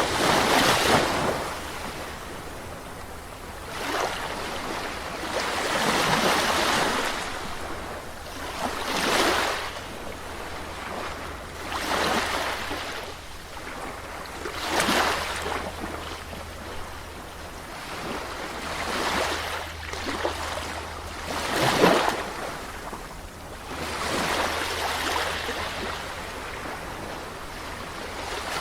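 Sea waves breaking and washing on a shore, one wash every two to three seconds, rising and falling, with the sharpest break near the end.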